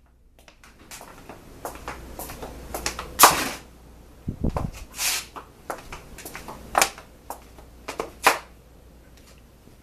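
Rummaging through household things: scattered clicks, knocks and rustling as objects are handled and moved, with a sharp knock a little over three seconds in and a dull thump about a second later.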